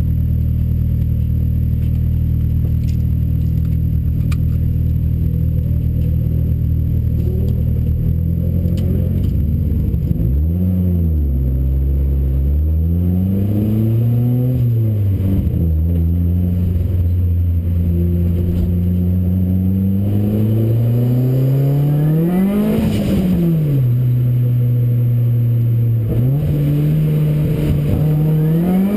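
Ford Racing Puma's modified Focus RS engine idling steadily, then from about ten seconds in its revs rising and falling several times as the car pulls away and runs at low speed, with a steady stretch at higher revs in between.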